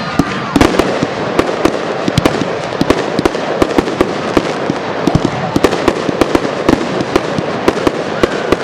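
Fireworks display: a rapid, continuous barrage of sharp bangs and crackling reports, several every second. A whistling shell's tone cuts off just after the start.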